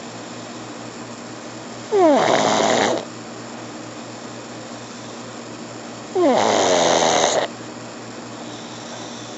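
Pug snoring: two loud snores about four seconds apart, each about a second long, opening with a falling whistle-like tone that turns into a rasp.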